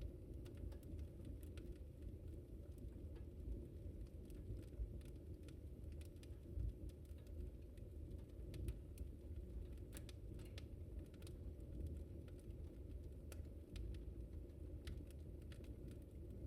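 Wood fire in a fireplace crackling: many small sharp pops and snaps, several a second, over a steady low rumble of the burning fire.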